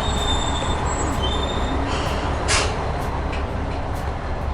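Train rumbling as it pulls into the station, with thin high wheel squeals in the first second and a short hiss about two and a half seconds in.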